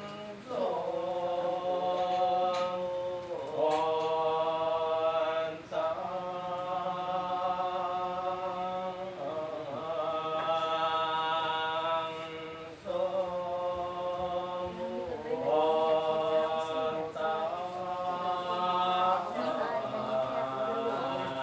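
Buddhist chanting in a slow, steady cadence, long syllables held on a nearly level pitch and breaking off for a breath every two to three seconds.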